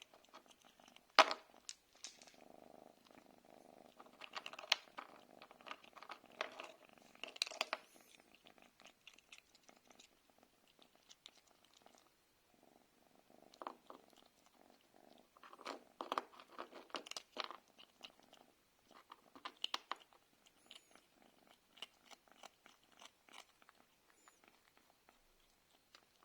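Domestic cat purring in stretches, with scattered short sharp clicks and crunches, the loudest about a second in.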